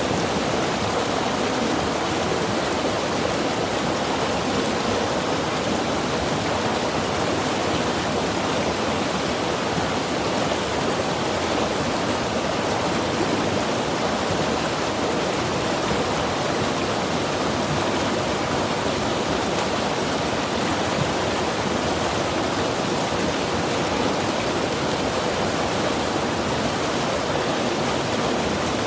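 Mountain river rushing steadily over rocks, an even, unbroken white-water noise.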